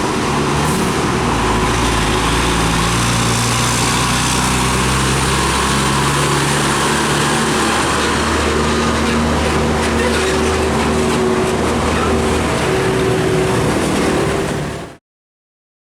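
Heavy diesel truck engines running on the road with tyre and traffic noise, their droning pitch shifting up and down. The sound fades out quickly near the end.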